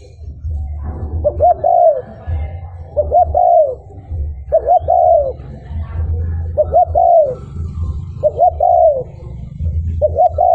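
Spotted dove cooing: six phrases, each of two short notes and a longer falling coo, repeated about every second and a half to two seconds, over a steady low hum.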